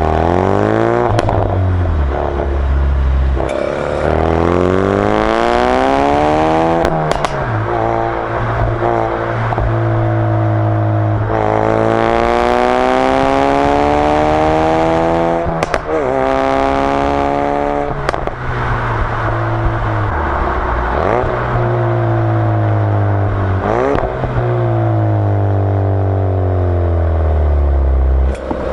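Ford Focus RS Mk3's turbocharged 2.3-litre four-cylinder exhaust, picked up from the rear of the car, as it pulls hard and shifts gear again and again. The pitch climbs, breaks at each change and climbs again, with a few sharp pops in between.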